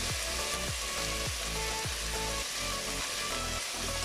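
Beef cubes frying in a stainless steel pot with a steady sizzle as chopped onion is scraped in from a wooden cutting board.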